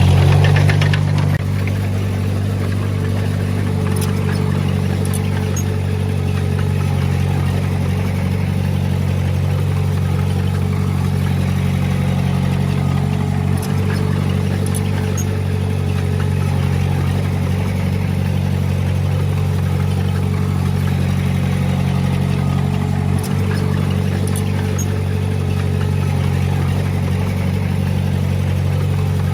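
A heavy machine's diesel engine running steadily at an even speed, a little louder for the first second or so.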